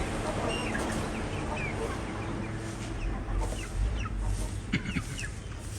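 A flock of young Indian parrot-beak chickens clucking and cheeping in short, falling calls, with a couple of sharp clicks near the end.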